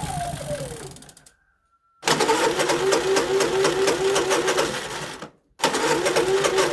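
Honda EU3000iS inverter generator's single-cylinder engine running. About a second in, its pitch drops and the sound fades out. After a short gap it runs again with a slightly wavering pitch, breaks off briefly near the end, and comes back steady.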